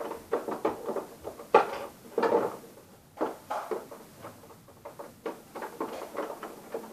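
Plastic clicks and knocks from a stiff plastic fashion doll being handled and pushed into a toy car seat, with the loudest knock about one and a half seconds in.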